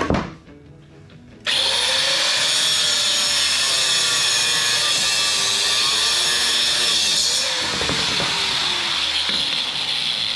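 A power saw cutting through a metal arm, starting abruptly about a second and a half in after a sharp knock and running steadily, its pitch wavering under load.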